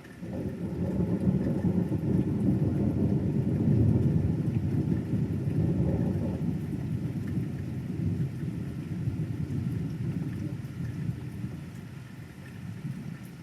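Rolling thunder: a deep rumble that is loudest in the first few seconds, then slowly fades over about ten seconds.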